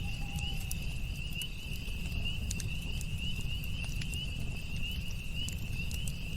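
Campfire crackling, with scattered sharp pops and a low rumble of burning, over a steady high pulsing chirp of crickets.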